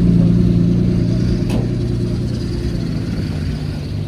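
A car engine running at a steady, even pitch, gradually fading.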